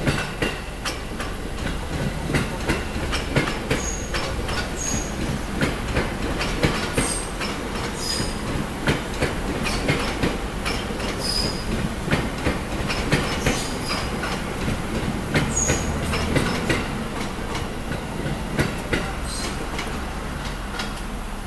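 Electric commuter train, a stainless-steel 205 series, running over a level crossing. The wheels clack steadily over the rail joints, with short high-pitched wheel squeals now and then.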